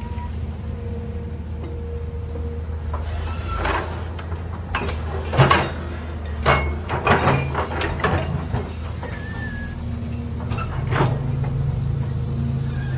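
Heavy diesel machine engine running steadily, with a series of irregular metallic clanks and knocks in the middle and a brief high squeal or two.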